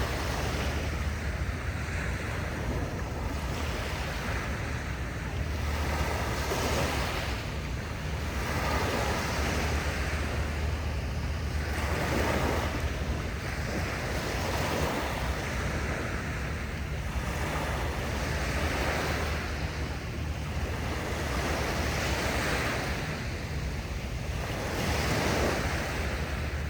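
Sea waves washing in and breaking, swelling and ebbing every few seconds, over a steady low rumble of wind on the microphone.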